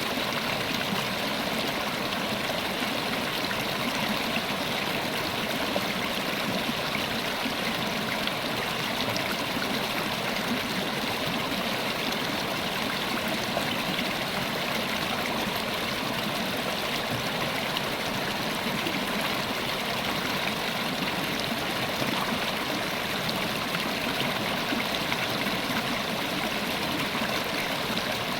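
River water running over rocks, a steady, unbroken rush and babble.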